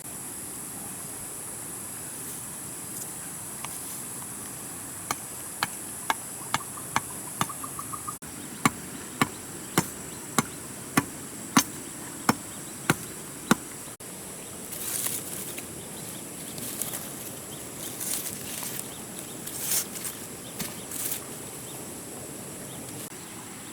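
Insects buzzing steadily and high. From about five seconds in, a run of sharp knocks about one and a half a second grows louder, then stops, and is followed by irregular scraping rustles.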